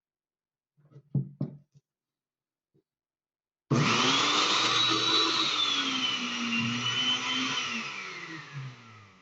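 Two sharp clicks, then a restored countertop blender's motor starts abruptly partway in and runs with a high whine, so the blender that would not switch on now runs. Near the end the motor winds down, its pitch falling as it fades.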